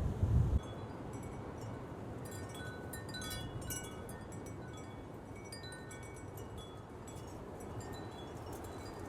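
Wind chimes ringing irregularly in gusting wind, short tones at several different pitches, over a steady hiss of wind. A brief low rumble of wind on the microphone just at the start.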